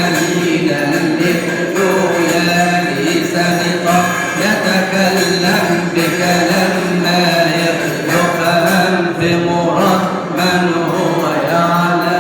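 Coptic Arabic hymn (madih): a chanted melody over a steady held drone note.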